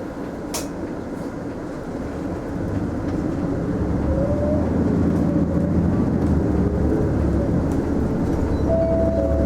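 Engine and running noise inside a Mitsubishi Fuso Aerostar city bus, growing louder from about two seconds in as the bus gathers speed, with a short tick near the start.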